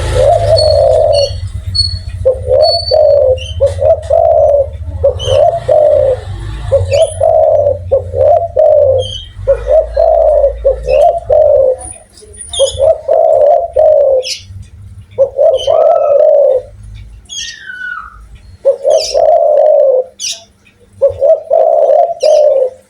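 Spotted dove cooing over and over in a big, full voice: a long run of low coo phrases of about a second each, separated by short gaps. Small birds chirp high-pitched in the background.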